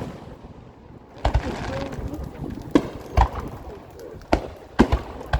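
Fireworks bursting overhead: a string of sharp bangs, about seven in five seconds, irregularly spaced, with faint voices of onlookers.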